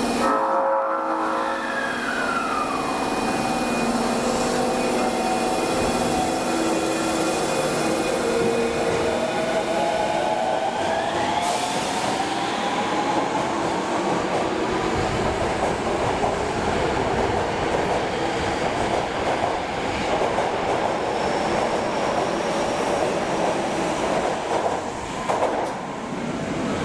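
Osaka Metro New 20 series subway train running, its traction motors whining in tones that slide in pitch, one climbing steeply about eleven seconds in.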